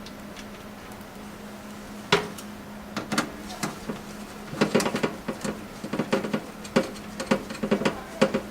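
Small metal clicks and clinks of screws and a screwdriver against a PC case and motherboard standoffs as the motherboard is screwed down: a sharp tap about two seconds in, then quick irregular runs of clicks from about halfway on, over a low steady hum.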